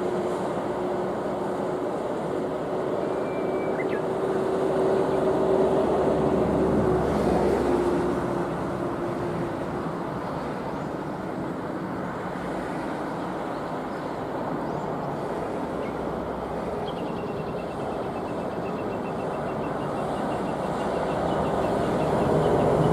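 Road traffic on a highway: vehicles passing with steady engine and tyre noise, one swelling past about six seconds in and another near the end.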